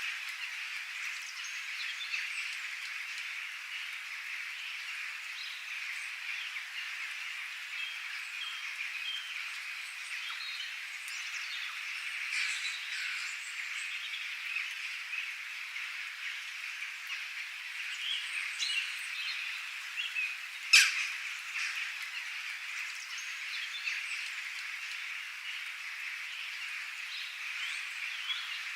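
A dense, steady chorus of calling animals, with scattered bird chirps over it and one sharp, loud click about 21 seconds in.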